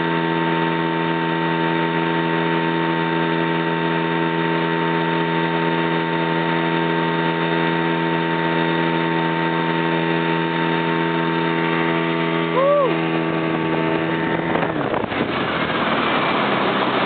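Motorboat engine running at a steady pitch, an even drone. A brief swooping chirp sounds about two-thirds of the way through, and near the end the drone gives way to a rushing noise.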